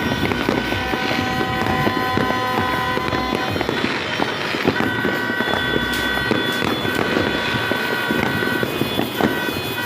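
New Year fireworks and firecrackers going off in a dense, continuous crackle of many small bangs. Several long steady high tones sound alongside, the strongest starting about five seconds in.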